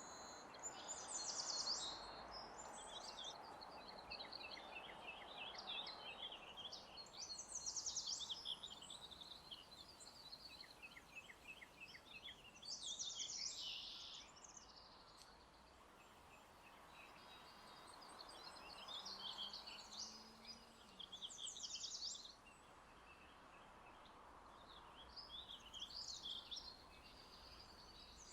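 Songbirds chirping and trilling in short, quickly repeated phrases, one after another, over a faint steady background hush.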